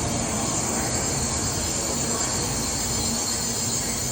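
A train running on the rails: a steady rumble with a continuous high-pitched hiss or squeal above it.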